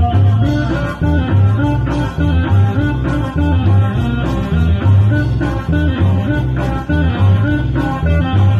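A Latin dance band playing an instrumental passage of the song, with a steady beat and a strong bass line under the melody instruments.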